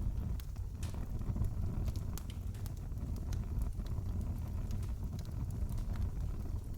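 Fireplace fire crackling: frequent sharp snaps and pops scattered over a steady low rumble.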